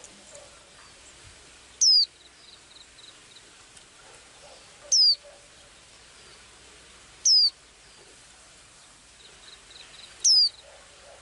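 A small songbird gives a loud, high, downward-slurred whistle four times, each note brief and a few seconds apart, with soft faint chips between the whistles.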